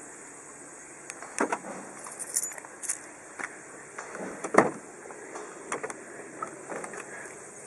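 Irregular clicks and knocks from a Volkswagen Golf Touran's door lock, the loudest a little past the middle. The lock is faulty: it makes an abnormal noise and fails to lock or unlock.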